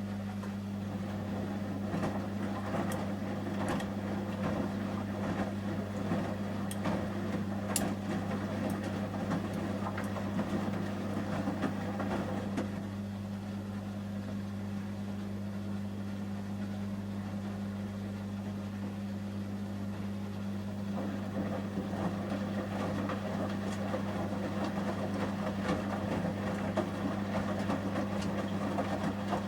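Samsung front-loading washing machine in the heating stage of a 30 °C shirts wash: the drum tumbles wet shirts with water swishing and small clicks over a steady low hum. The tumbling eases off for several seconds about halfway through, then picks up again.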